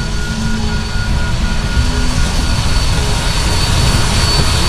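Heritage train passing close by: a loud, steady rumbling roar.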